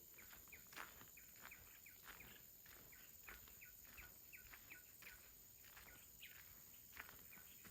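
Faint outdoor ambience: a bird giving a steady run of short, falling chirps, a few each second, over soft footsteps on a path.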